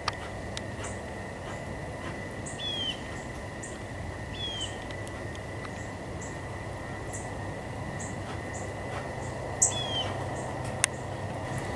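Birds calling in the garden: short high chirps repeated every half second or so, and three downward-slurred calls, over a steady high whine and low background noise. Two sharp clicks, one at the start and one near the end.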